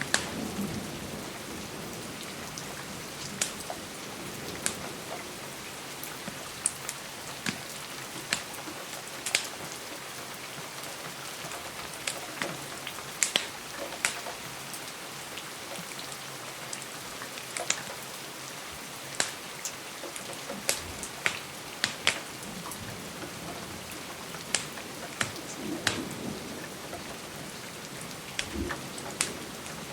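Steady rain, with many short sharp crackles and taps scattered through it, as from rain on a windowpane and a crackling log fire.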